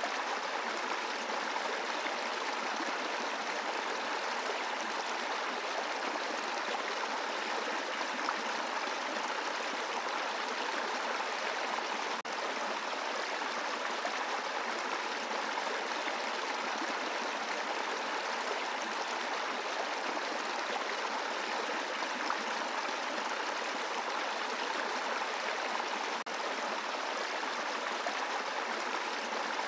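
A brook running over a bed of rocks: a steady, even rush of flowing water.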